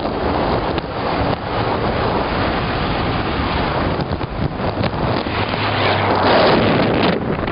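Wind rushing over the microphone of a moving motorbike, a loud steady roar with the bike's running noise beneath it.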